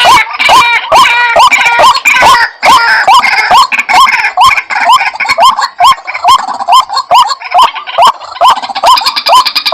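White-breasted waterhen calls played as a hunter's lure recording: loud, harsh rising "kwak" notes repeated about twice a second, with overlapping calls layered over them.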